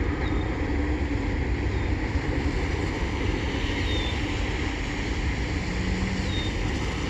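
Steady low rumble of a freight train rolling past, mixed with wind noise on a phone microphone. A few faint, short, high falling chirps come through.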